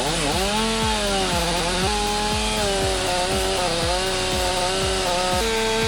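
Chainsaw engine running. Its pitch wavers up and down at first, then holds steady with a couple of small jumps in pitch.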